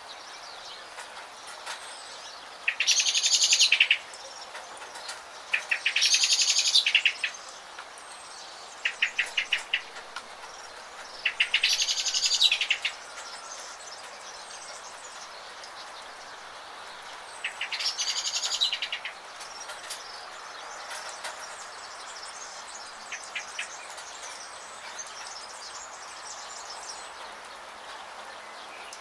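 A songbird singing loud, rapid, high trills about a second and a half long, five times in the first twenty seconds, then fainter and shorter. Behind it is a steady hiss of rain, with faint high chirps from other birds.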